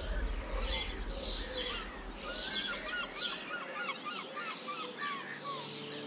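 Birds singing: high calls sweeping downward about twice a second, with a quick run of short chirps through the middle. Soft ambient music fades out partway through and comes back in near the end.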